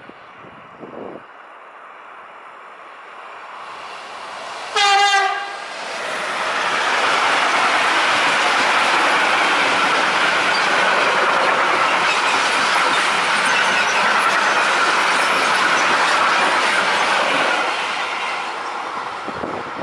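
A Siemens Vectron electric locomotive sounds one short horn blast about five seconds in as it passes, then a long freight train of covered wagons rolls past close by with steady wheel-on-rail noise, easing off near the end as the last wagons go by.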